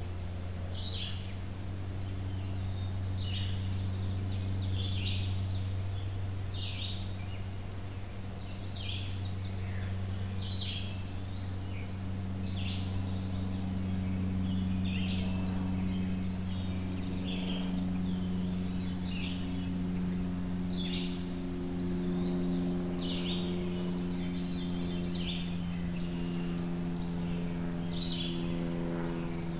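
Small birds chirping, short high calls about once a second, over a steady low hum.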